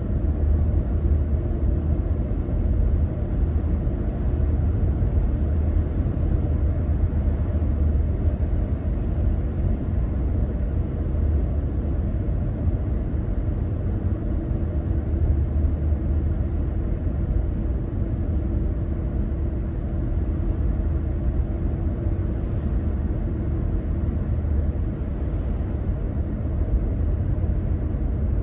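Car driving along a road: a steady low rumble of engine and tyre noise, with a faint steady hum joining in about halfway through.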